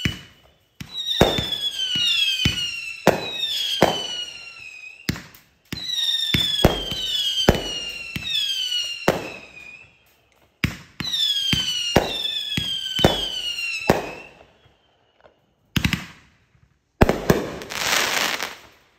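Consumer firework cake going off in three rapid volleys of sharp bangs mixed with falling whistles. It ends with a few lone bangs and a loud hissing burst near the end: the last shots of a grand-finale cake.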